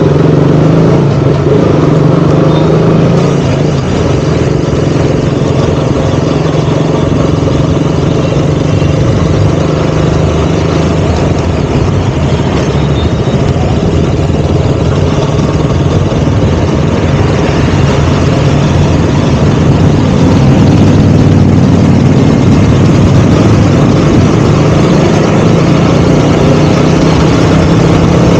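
KTM Duke 200's single-cylinder engine running as the motorcycle is ridden, its note holding fairly steady. It gets a little louder about two-thirds of the way through.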